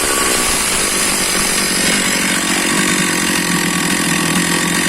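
Stihl MS460 two-stroke chainsaw engine running after a service. Its speed drops in the first second, then it runs steadily while burning off the oil put into the cylinder through the spark-plug hole.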